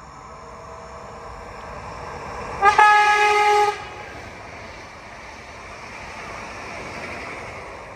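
Train horn sounding one short blast of about a second, about a third of the way in, over the noise of a train that grows louder toward the end.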